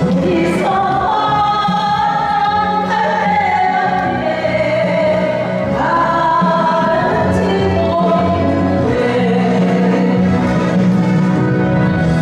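An amateur singer singing a Korean ballad over instrumental accompaniment, holding long notes and sliding between them.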